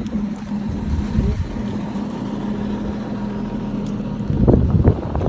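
A vehicle engine running steadily with a low, even hum, and a few louder bursts of rumbling noise near the end.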